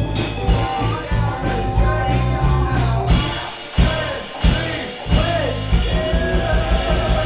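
Gypsy rock band playing live: drums, bass, guitar and accordion with singing. About three seconds in the bass and drums drop out for a couple of seconds, broken by two sharp accent hits, then the full band comes back in.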